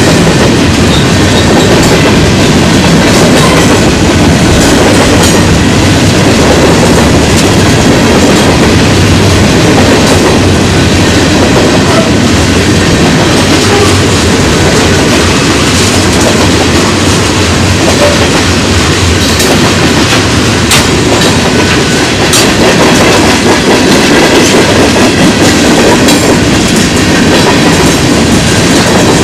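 Freight train's covered hopper and tank cars rolling past: a loud, steady rumble of steel wheels on rail, with scattered clicks from the wheels running over the track.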